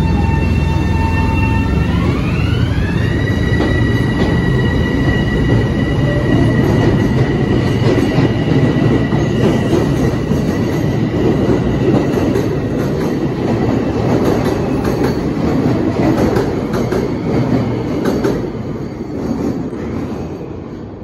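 Long Island Rail Road electric train pulling out: a whine from its motors that steps up in pitch about two seconds in and then holds, over the rumble and clatter of the wheels on the rails. The sound fades over the last few seconds as the train moves away.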